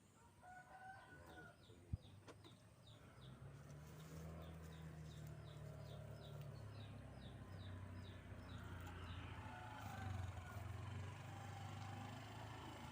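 A rooster crowing, faintly, near the start, over a fast high repeating chirp. A sharp click comes about two seconds in, and a low motor hum builds from about three seconds in.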